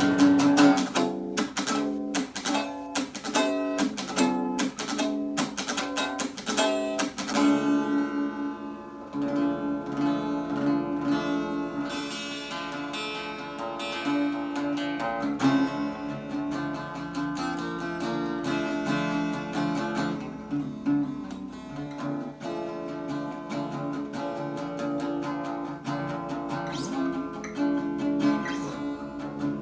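Acoustic guitar playing: sharp, rhythmic strummed chords for the first several seconds, then picked notes ringing on through the rest.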